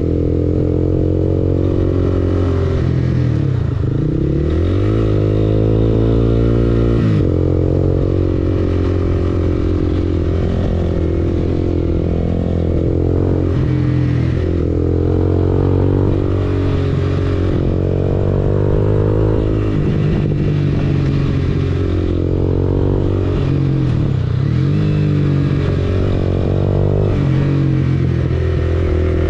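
Honda CBR250R single-cylinder engine running through an aftermarket Akrapovič exhaust, its pitch falling and rising again several times as it is revved between steadier stretches.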